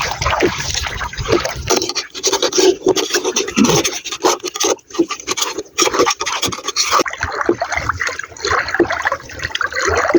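Irregular scraping and rubbing on a raw pen shell as it is cleaned, with many small clicks and scrapes.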